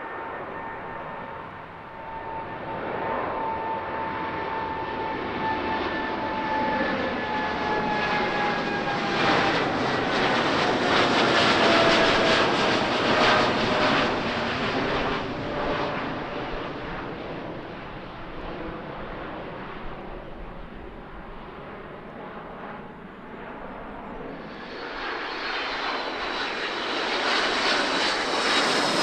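Airliner engines passing close by, their whine sliding down in pitch as the aircraft goes past. The sound is loudest about halfway through and then fades. Near the end a new rush of engine noise with a high whine builds up.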